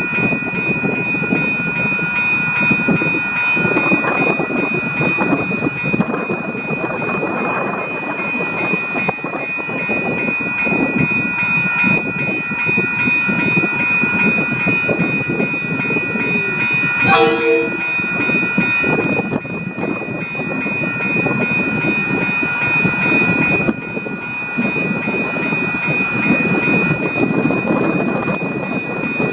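Continuous rumbling, rattling running noise of a vehicle in motion, with a constant high whine held steady over it. A short tonal blip sounds about 17 seconds in.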